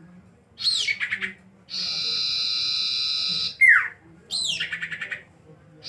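Common iora (sirtu) calling in a repeating phrase: a quick string of notes, then a long, even, high trill lasting nearly two seconds, then a sharp falling whistled note, and the string of notes again near the end.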